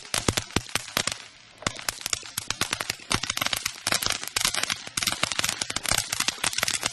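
A string of firecrackers going off: a rapid, irregular run of sharp cracks, with a short lull about a second and a half in before they resume.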